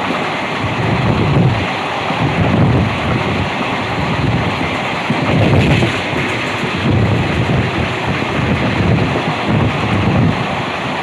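Passenger train running at speed, a steady rushing rumble, with wind buffeting the microphone in irregular low gusts about once a second.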